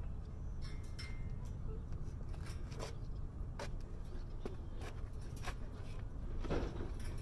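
Scattered light knocks and clatters of debris being shifted while digging through a dumpster, the strongest cluster near the end, over a steady low rumble.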